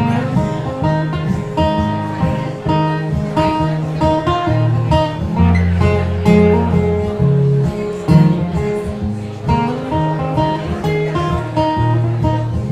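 Live acoustic guitar music without singing: an instrumental break in an Americana folk song, with a run of plucked notes over low sustained notes.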